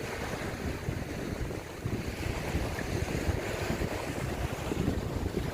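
Wind buffeting the microphone in a steady, gusty low rumble, over the hiss of waves breaking on the beach.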